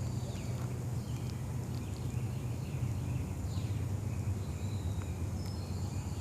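Wind buffeting the microphone in a steady low rumble, with small birds chirping faintly in short high calls.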